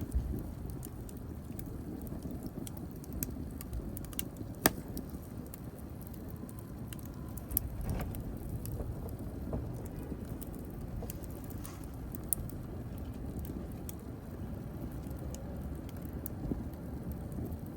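Wood fire burning in a fireplace: a steady low rumble with scattered sharp crackles and pops, the loudest about four and a half seconds in.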